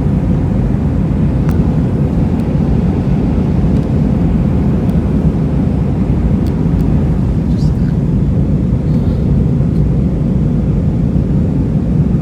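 Steady low rumble of engine and airflow noise inside the cabin of an Airbus A320 airliner, with a faint steady hum and a few soft clicks.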